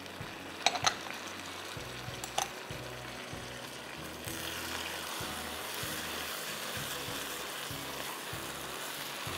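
Chicken strips, capsicum and sauce sizzling in a wok while being stirred with a spatula, with two sharp knocks against the pan in the first few seconds. The sizzle grows louder and hissier about four seconds in.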